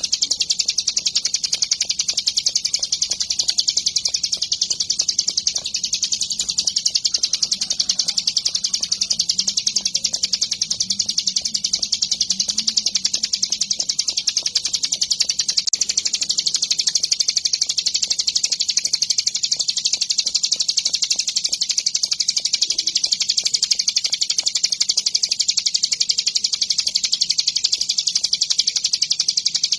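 Ciblek gunung, a prinia, singing a fast, high-pitched, unbroken trill of rapidly repeated notes, at the steady full song of a bird in top form (gacor).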